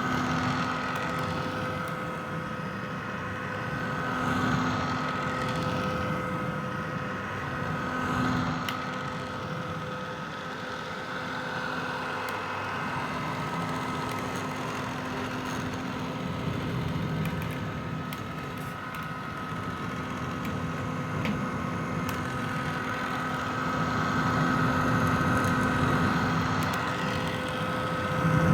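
Vintage hair dryer running steadily: an even whoosh of air from its fan, with a steady motor hum in it. The loudness swells and eases slightly every few seconds.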